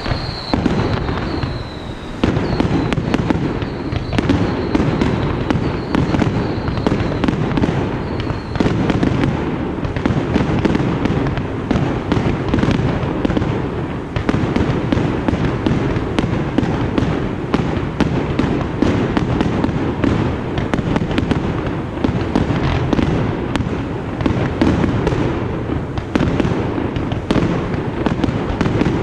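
Fireworks display going off in a dense, continuous barrage of bursts and booms with crackling, and a high whistle in the first several seconds.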